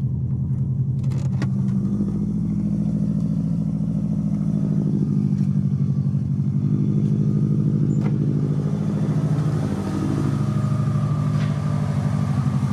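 Subaru WRX STi's freshly built turbocharged flat-four boxer engine idling steadily while it warms up from cold.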